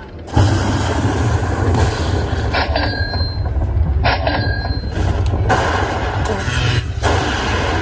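Lightning Link slot machine sound effects: a loud, dense low rumble with two brief electronic chimes, about 2.5 and 4 seconds in.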